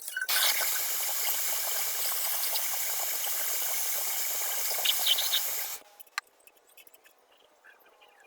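Paint spray hissing steadily for about five and a half seconds, then cutting off abruptly, followed by a few faint clicks.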